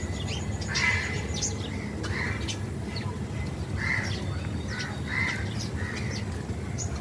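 Birds calling: a series of about six short, harsh calls a second or so apart, with thinner high chirps from other small birds in between.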